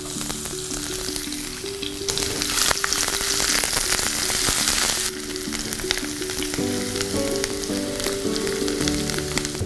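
Chopped garlic and green chilli sizzling and crackling in hot oil in a non-stick pan, stirred with a silicone spatula; the sizzle swells louder from about two to five seconds in. Soft background music plays underneath.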